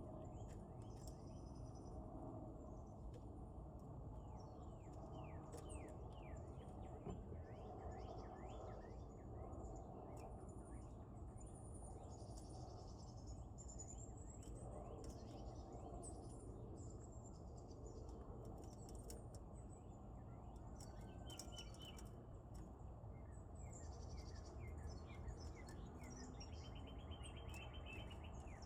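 Wild birds chirping and calling: many quick down-slurred chirps and short high notes, with a brief buzzy trill near the end, over a steady low background noise.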